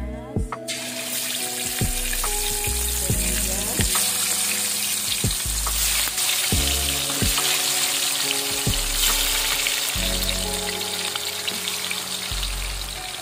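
Chicken pieces deep-frying in hot oil in a wok: a loud, steady sizzle that starts suddenly under a second in as the chicken goes into the oil.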